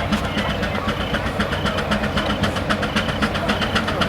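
Steam traction engine running with a steady, rapid beat of exhaust chuffs.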